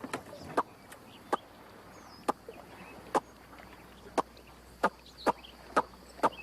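A person making an alligator call: about ten short, sharp pops at an uneven pace of one or two a second, curious sounds meant to draw an alligator closer.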